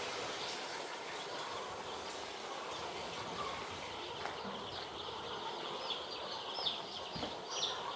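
A flock of young poultry cheeping together in the poultry house, a steady chorus of short, high chirps that stand out more clearly in the second half.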